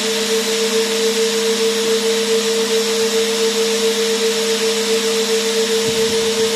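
Vacuum cleaner running steadily: a constant motor hum with one strong steady tone over a broad airflow hiss.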